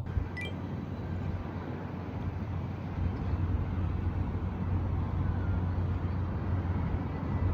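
Car driving: a steady low rumble of engine and road noise that grows louder about three seconds in, with a short click near the start.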